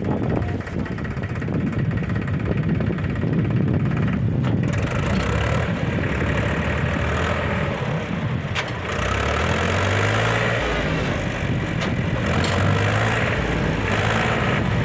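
Heavy diesel engine running steadily, then revving up twice, with a rushing hiss above it from a few seconds in.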